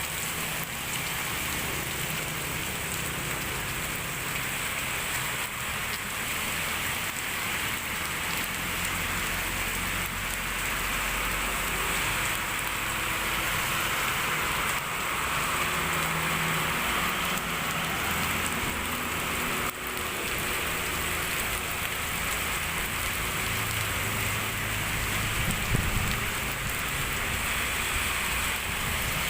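Steady rain falling, a continuous even hiss, with a low hum underneath and one brief knock near the end.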